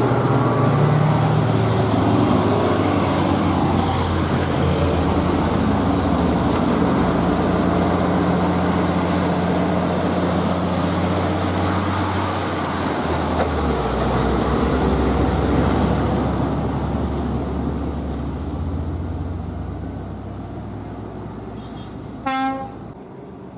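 Heavy diesel truck engines running steadily, fading away over the last few seconds, with one short horn toot about 22 seconds in.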